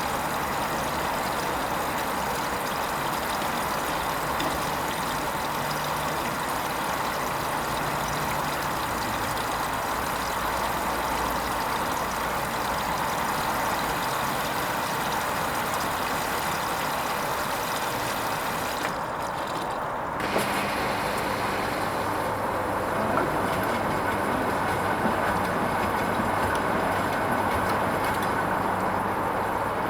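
Hoover Vision HVP16 washing machine running a silks wash cycle, a steady mechanical hiss. About two-thirds of the way through the sound changes: the high hiss drops away and a low steady hum comes in.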